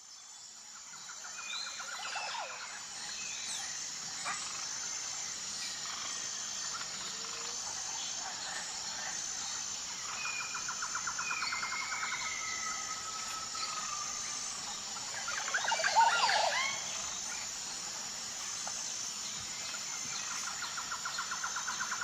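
Natural outdoor ambience: birds chirping and calling over a steady, pulsing high insect chirr, with a louder cluster of bird calls about two-thirds of the way through.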